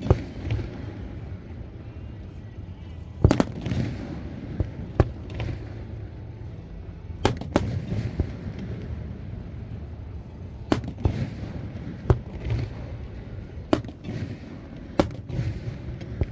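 Fireworks display: aerial shells going off with sharp bangs every one to three seconds, some in quick pairs, each trailing off into smaller pops, over a steady low rumble.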